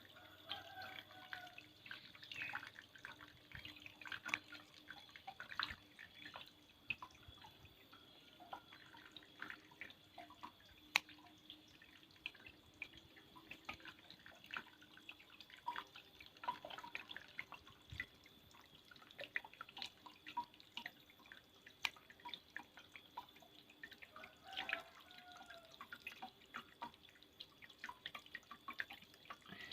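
Water from a small homemade mini waterfall dripping and splashing in irregular, quick drops, over a faint steady hum.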